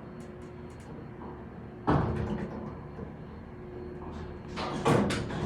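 Elevator car travelling up: a steady low hum, a sudden thump about two seconds in, and louder door-like clattering near the end.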